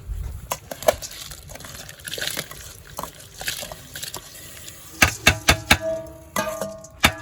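Cookware being handled around a pot of boiling chicken: scattered knocks and clanks, a quick run of loud ones about five seconds in, then metallic strikes that ring on near the end.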